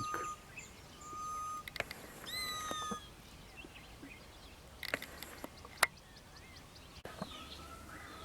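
Wild birds calling, the grey-headed bushshrike and lizard buzzard among them: a few short, steady whistled notes in the first three seconds, one sliding downward in pitch, then scattered fainter chirps.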